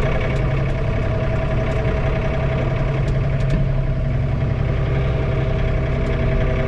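John Deere 3046R compact tractor's diesel engine running at a steady speed, heard from inside the closed cab, with the PTO just shut off.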